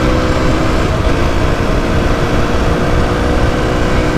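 Mondial SMX 125i supermoto's single-cylinder engine running at a steady cruising speed, holding one pitch, under heavy wind rumble on the helmet microphone.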